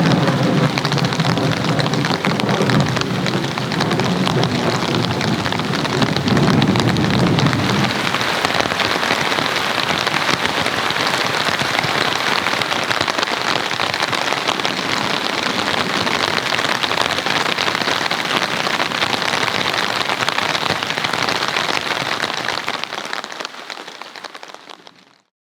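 Heavy rain falling steadily, with thunder rumbling low through the first several seconds; the rain fades out near the end.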